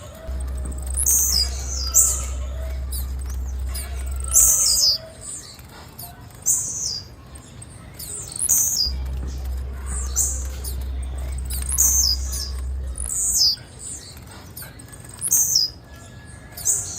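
Female blue-black grassquit (tiziu) calling: about a dozen short, high, downward-slurred chip notes at irregular intervals. A low hum comes in and cuts out twice.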